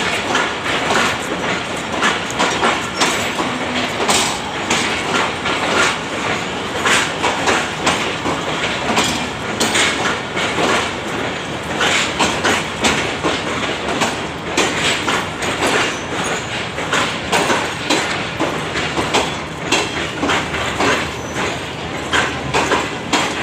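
Express train coaches rolling past, their wheels clacking over the rail joints in a dense, uneven stream of clicks.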